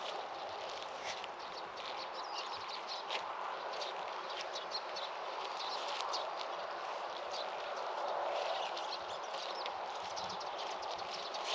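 Small birds chirping and calling over a steady outdoor background hush.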